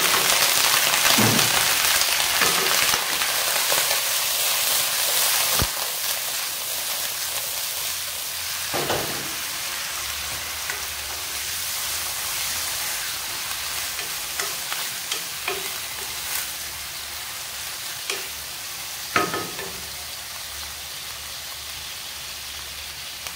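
Raw chicken pieces sizzling in hot oil in a wok, loudest at first and dying down slowly, while a wooden spatula stirs and scrapes the pan, with a few sharp knocks of the spatula against the wok.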